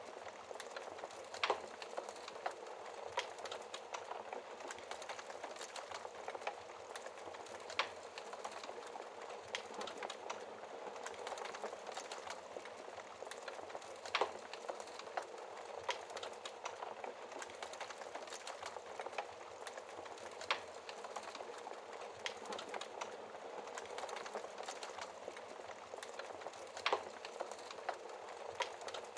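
Wood fire burning in a fireplace: a steady hiss of flames with frequent small crackles and a few louder pops.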